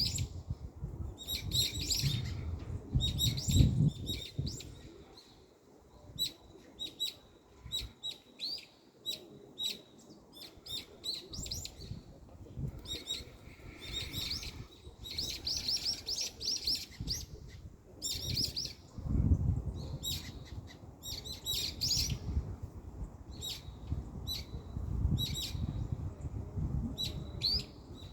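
Small birds chirping repeatedly in quick clusters of short high notes, over a low rumble that comes in at the start and again about two-thirds of the way through.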